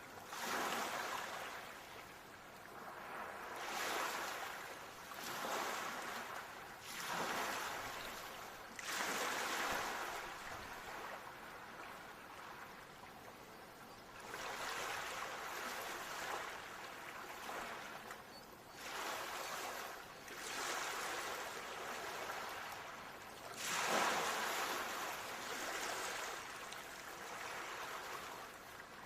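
Ocean waves breaking and washing up a shore, each surge rising and falling back every few seconds, some longer and fuller than others.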